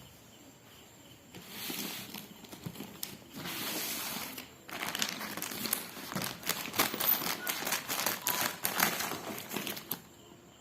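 An RC helicopter's box and packaging being opened: a few longer rustling scrapes, then a dense run of crinkling and crackling from about five seconds in.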